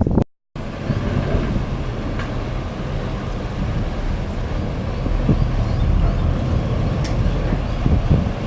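Steady low rumble of a Brisbane CityCat catamaran ferry's engines, with wind on the microphone.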